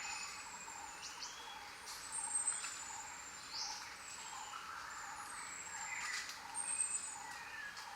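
Jungle birds calling over a steady hiss: thin, high whistles that slide slightly downward recur every second or so, mixed with shorter chirps and a few sharp calls.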